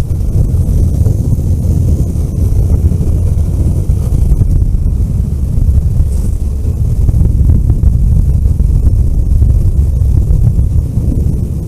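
Vehicle driving along a road: a steady low rumble of engine, tyres and wind noise.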